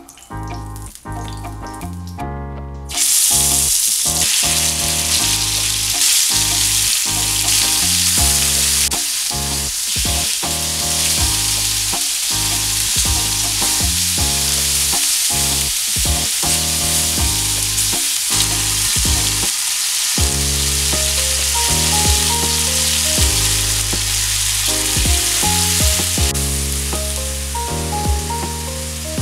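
Chicken satay skewers sizzling as they fry in oil on a hot flat pan. The sizzle starts suddenly and loudly about three seconds in and keeps up steadily, with background music playing throughout.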